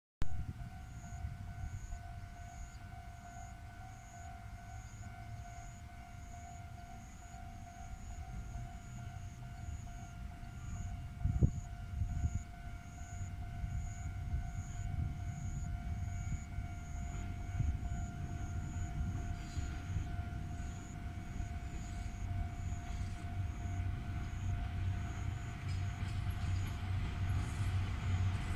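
Chichibu Railway's Deki 201 electric locomotive hauling a rake of 12-series passenger coaches on approach, a low rail rumble growing louder as it nears. A steady high alarm-like tone with a faint regular pulse, about three beats every two seconds, sounds throughout, and there is a single sharp knock about a third of the way in.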